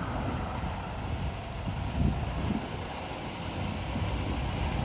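Steady low rumble of motor vehicles in street traffic, with some wind on the microphone.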